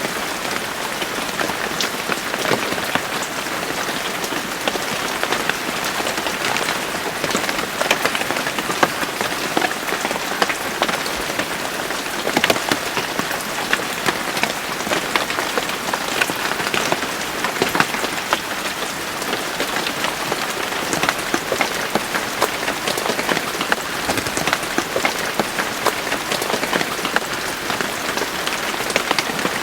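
Steady rain falling on a surface, a dense even patter of many individual drops with no let-up.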